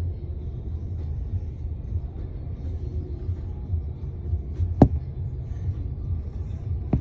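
Low, steady rumble of truck engines running, with a sharp click about five seconds in and another near the end.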